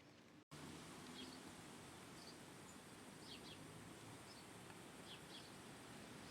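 Faint, short high chirps from a small bird, often in pairs, repeated about once a second over a steady hiss. The sound cuts out for a moment about half a second in.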